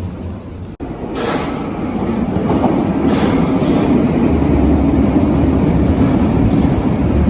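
Berlin U-Bahn large-profile train running on the track. Its rumble and wheel noise grow louder over the first few seconds and then hold steady, after a brief break in the sound about a second in.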